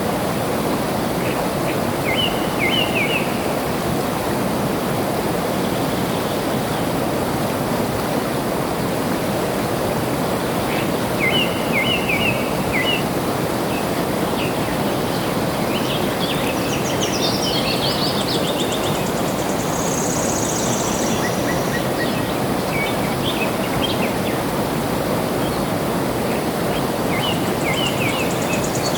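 Steady rush of flowing water, with birds chirping now and then over it: short chirp phrases about two seconds in and around eleven seconds, a busier bout around sixteen to nineteen seconds, and a high buzzy trill around twenty seconds and again near the end.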